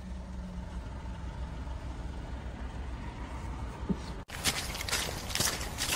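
Steady low rumble of a car idling, heard from inside the cabin. About four seconds in, the sound cuts and gives way to louder rustling hiss on the microphone.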